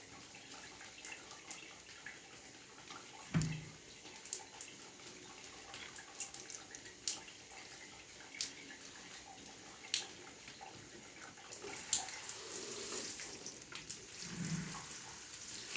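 Water running and splashing in a small tiled bathroom during a dog's shower, with scattered sharp drips and splashes. There is a dull thump about three seconds in, and the spray gets louder and hissier about twelve seconds in.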